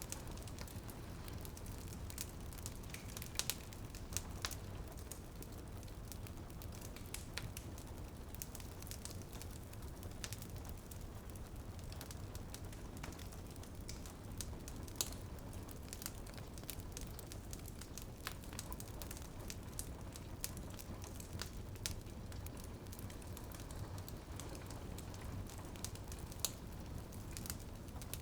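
Wood fire crackling in a fireplace, with irregular sharp pops and snaps over a steady low rumble, and a few louder pops. A soft patter of rain on a window sits underneath.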